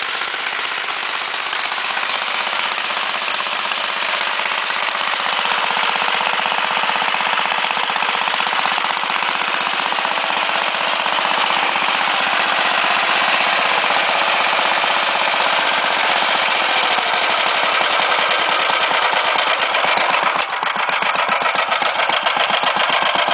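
BCS two-wheel motor mower with an Acme VT-88 engine running steadily, a loud, fast, rapid clatter, with a short dip about twenty seconds in.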